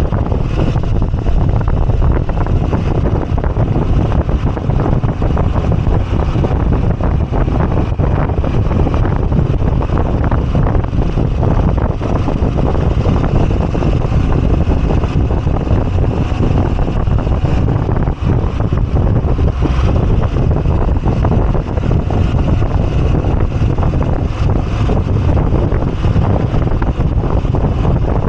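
Moto Guzzi V85TT's air-cooled V-twin running steadily under way, with heavy wind rush on the microphone.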